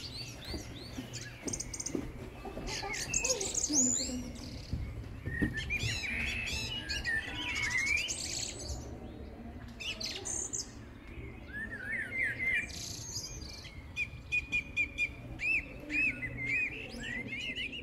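Small birds chirping in quick, high calls, scattered at first and in a run of repeated chirps near the end, over a low steady hum.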